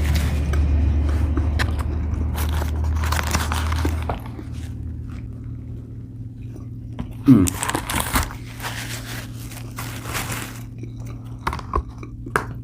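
A person chewing and crunching mouthfuls of salad with croutons and lettuce, close to the microphone. A steady low hum underneath stops about four seconds in.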